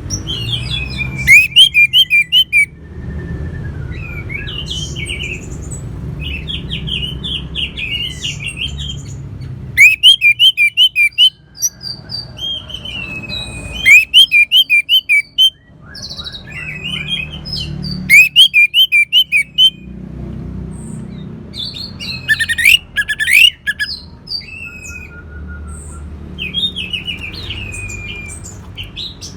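Orange-headed thrush singing: loud phrases of quick repeated whistled notes every few seconds, with softer twittering between them. A steady low rumble runs underneath.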